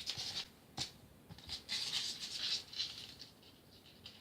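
Scratchy rustling and rubbing of polystyrene foam pieces being handled and pressed together as a glued foam panel is stuck in place, with a couple of light clicks near the start.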